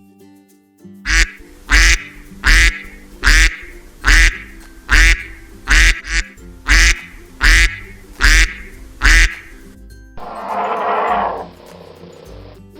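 A duck quacking about a dozen times in a steady, even series, a little more than one quack a second. Near the end comes a short, rough, noisy sound.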